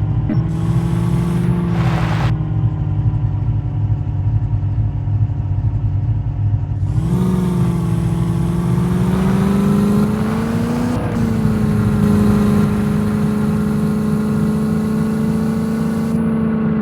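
Landi jeep's engine running steadily, heard on board. Its pitch steps up about seven seconds in as it speeds up, climbs a little further, then holds steady.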